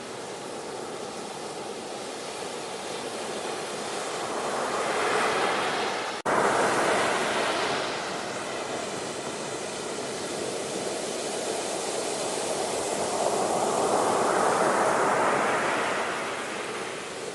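Ocean waves surging and washing back: a steady hiss of surf that swells twice, about five to seven seconds in and again around fourteen seconds. It cuts out for an instant about six seconds in, then comes straight back loud.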